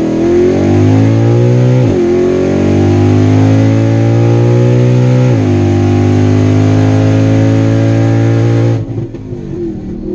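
Supercharged 5.0 V8 of a 2015 Mustang GT with long-tube headers and no muffler or midpipe, at full throttle through its automatic transmission, heard from inside the cabin. The engine pitch climbs and drops at each upshift: one right at the start, one about two seconds in, one about five seconds in. It climbs again until the throttle is lifted near the end, and the engine falls off to a lower, quieter run.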